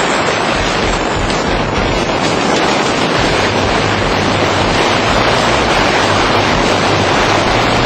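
Heavy wind rushing over the microphone as a vehicle pulls hard off a street-race launch, with a low engine drone under it.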